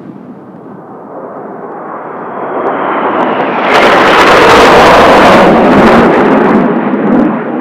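Blue Impulse Kawasaki T-4 jet trainers passing close overhead. The jet roar builds over a couple of seconds, is very loud for about three seconds in the middle, then fades.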